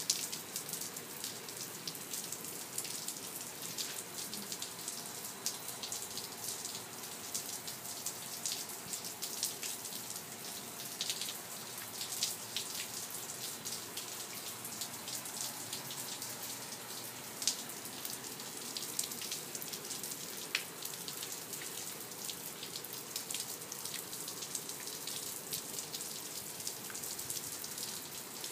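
Steady rain falling: an even hiss dotted with the sharp ticks of individual drops striking.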